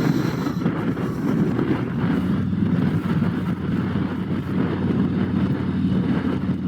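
Harley-Davidson Road Glide's V-twin engine running at a steady cruise, heard from the saddle, with wind buffeting the microphone.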